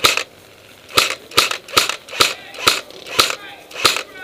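Airsoft gun firing single shots: about eight sharp cracks at uneven intervals of roughly half a second.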